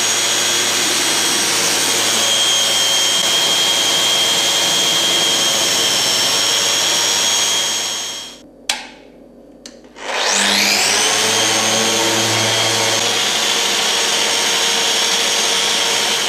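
Festool Rotex RO 150 random orbital sander running on a timber floor: a steady motor whine over sanding noise. It winds down about eight seconds in, two clicks follow, and then it spins back up with a rising whine and runs on.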